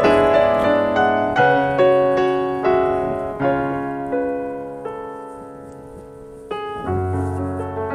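Background piano music: single notes and chords struck about every half second, each ringing and fading, with a quieter, sparser passage in the middle before new chords come in near the end.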